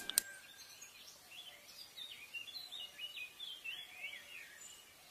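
Faint bird chirping: a run of short, high, quick chirps over a quiet hiss.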